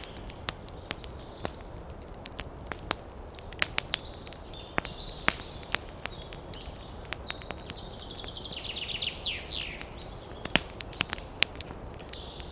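Wood fire crackling, with irregular sharp pops and snaps over a steady low rush of wind. Small birds chirp high in the background, with a quick run of chirps about nine seconds in.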